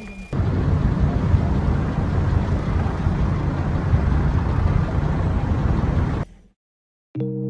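Steady rumble and road noise of a vehicle driving, with no impact, cutting off suddenly about six seconds in.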